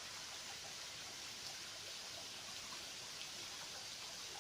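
Faint, steady rush of a shallow river flowing.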